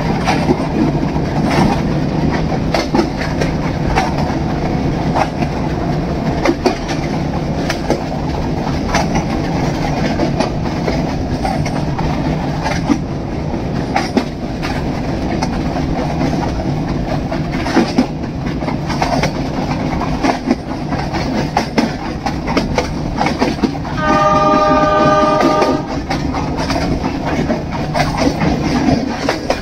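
Metre-gauge passenger train running, heard from a coach window: a steady rumble with repeated clicks of the wheels over rail joints. Near the end the locomotive sounds its horn once, for about two seconds.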